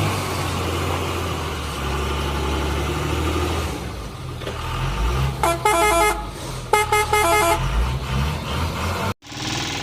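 Cartoon vehicle sound effects: a motor vehicle engine running steadily, with two bursts of a multi-note horn honking in quick changing pitches about halfway through. Near the end the sound cuts out abruptly and a different engine-like noise starts.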